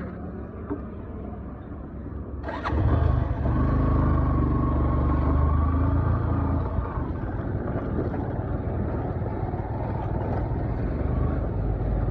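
Motor vehicle engine running, becoming suddenly louder about two and a half seconds in, with a steady whine over the low rumble for a few seconds.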